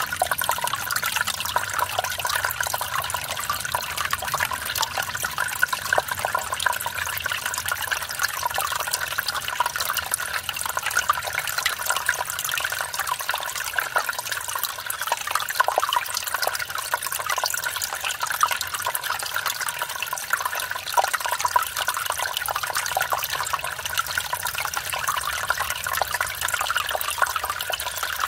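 Mountain stream running over a small waterfall: a steady rush of water with splashing and bubbling.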